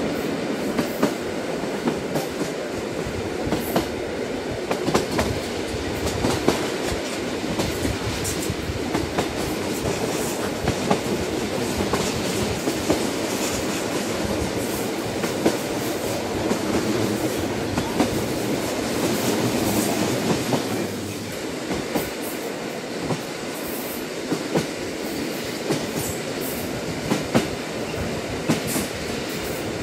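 Train running on its rails: a steady rumble with irregular clicks and clacks of the wheels over the rail joints, easing slightly about twenty seconds in.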